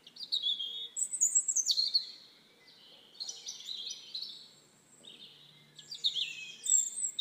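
High-pitched bird-like chirping and twittering in several short runs, with clean gaps of silence between them.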